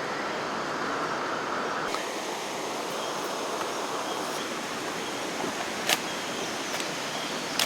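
Steady rushing hiss of outdoor ambience, with a sharp click about six seconds in and another near the end.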